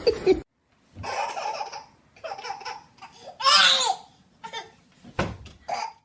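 Laughter in several short bursts, the loudest a little past the middle.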